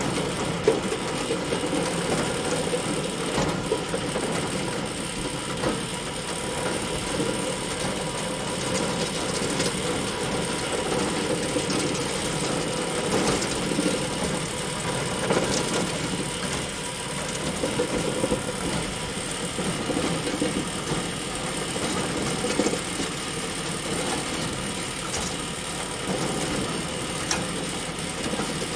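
Farm bale elevator running steadily, its conveyor mechanism giving a continuous mechanical drone with scattered small clicks and rattles.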